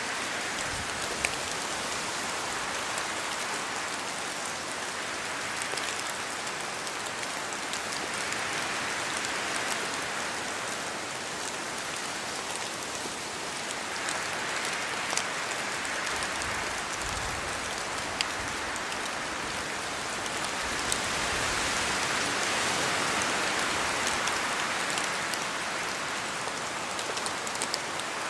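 Steady rain falling through forest trees, a dense hiss with scattered sharp drop ticks, swelling and easing every few seconds as gusts of wind shake water from the leaves.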